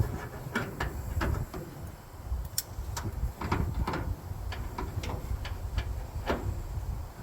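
Scattered sharp metallic clicks and clinks of hand wrenches working on bolts, about one or two a second, over a steady low rumble.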